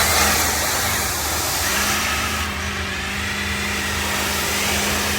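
Pickup truck engine held at steady high revs under a loud rushing hiss, during a burnout.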